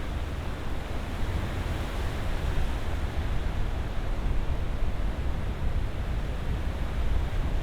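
Ocean surf: a steady rushing wash with a deep rumble underneath, no single wave standing out above the rest.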